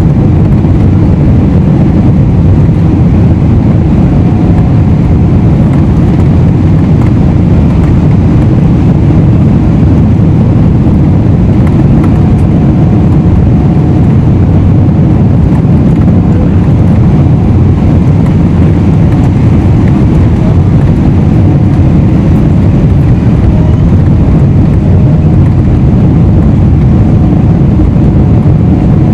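Cabin noise inside a Boeing 777-300ER in flight: a loud, steady low rumble of the GE90 engines and rushing airflow, with a faint steady whine over it.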